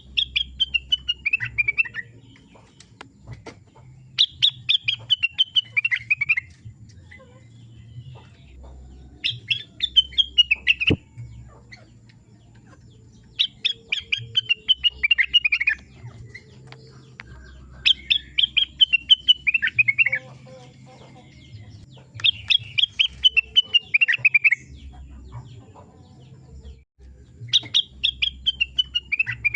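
A rengganis, an Indonesian cage songbird, singing: a rapid run of notes falling in pitch, about two seconds long, repeated seven times at roughly four-second intervals. A faint low hum lies under it.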